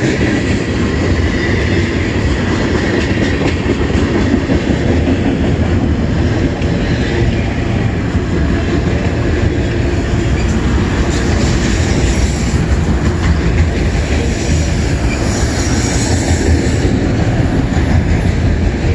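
Freight cars of a long mixed freight train rolling past close by, tank cars and then autorack cars, their wheels running on the rails in a loud, steady rumble.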